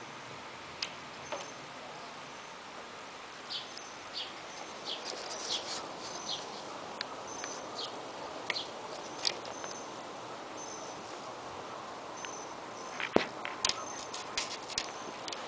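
Small birds outside, making many short high chirps and brief whistled notes. Scattered light clicks and taps come with them, and a sharp knock near the end is the loudest sound.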